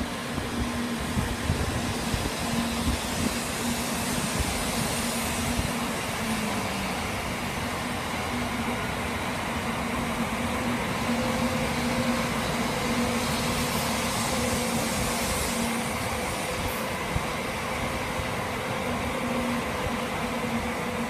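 N700A-series Shinkansen train moving slowly past on the station track: a steady rumble of wheels and running gear with a low, steady hum.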